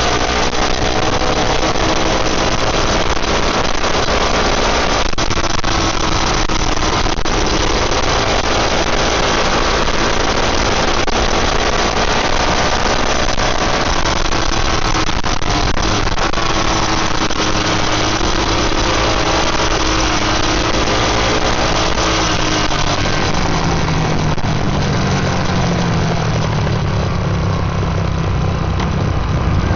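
Dual-sport motorcycle engine running under way, its pitch rising and falling as the revs change, over a steady rush of wind noise.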